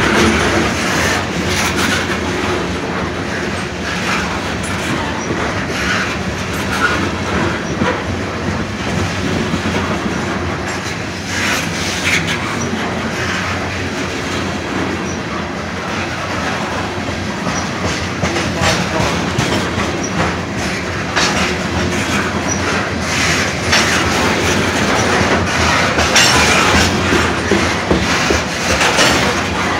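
Freight cars of a long unit grain train rolling past at track side: a steady rumble of wheels on rail with a continual clickety-clack of wheels over rail joints.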